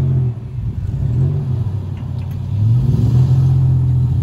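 Four-wheel-drive engines revving hard under load in repeated surges, the pitch climbing and dropping a few times, as one 4WD tows another out of soft sand on a recovery strap.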